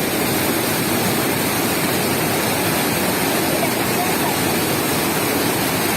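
A steady, loud rushing roar, with faint voices about four seconds in.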